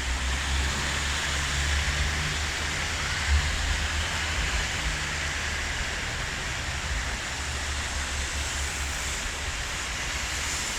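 Heavy rain and storm runoff rushing over a flooded street and sidewalk, a steady hiss where the storm drains have failed. A low rumble runs under it for the first five seconds or so, then fades.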